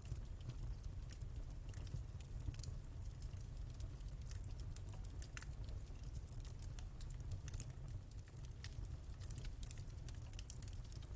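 Wood fire in a fireplace crackling: many irregular sharp pops and snaps over a steady low rumble of the burning fire.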